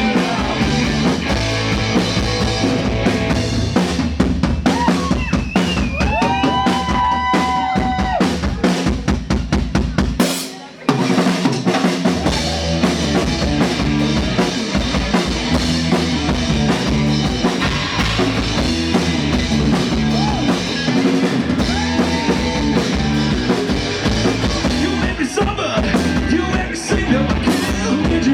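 Rock band playing an instrumental passage with drum kit, bass and electric guitar. A held guitar note is bent about six seconds in, and the band breaks off briefly on a sharp hit about ten seconds in before coming back in.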